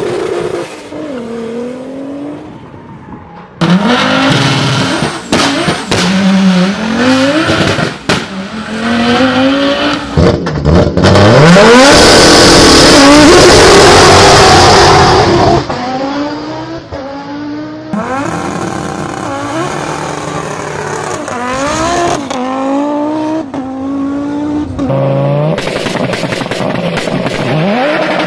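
Audi engines revving hard and accelerating, the pitch climbing and then dropping at each gear change, repeated over several runs. There is tyre squeal near the start, and the loudest, harshest run comes about halfway through.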